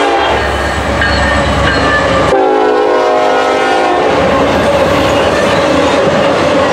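Norfolk Southern diesel freight locomotives passing at speed, sounding the horn in two blasts. The second blast drops slightly in pitch as the locomotives go by. The horn stops about four seconds in, leaving the steady rumble and clatter of intermodal cars rolling past on the rails.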